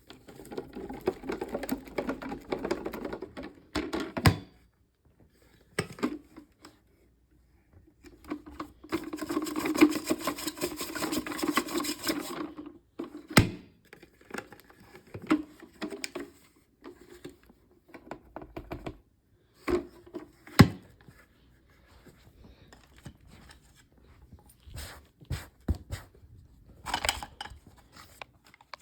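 Fine dirt being dumped onto a carpet from a container: two stretches of rustling, pouring sound, with several sharp knocks and clicks of things being handled and set down.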